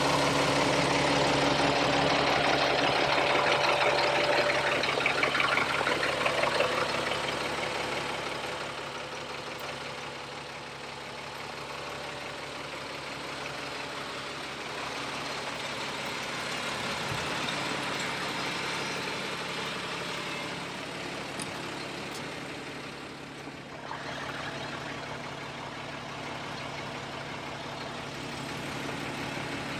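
Caterpillar 3126B turbo diesel of a military 6x6 wrecker truck running. It is louder for the first seven seconds or so, then settles to a steady idle.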